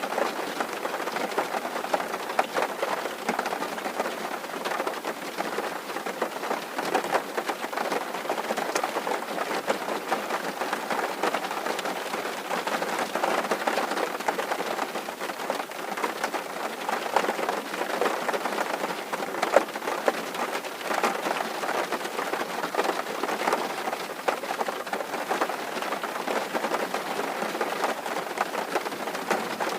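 Steady rain drumming on a tin roof, a dense patter of many fine drops.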